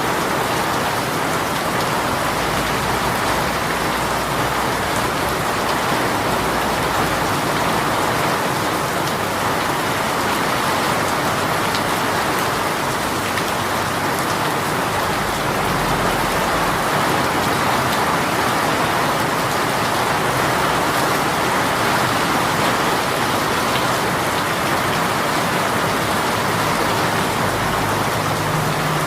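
A rain shower pouring steadily, a dense, even hiss of rain falling on surfaces that holds the same level throughout.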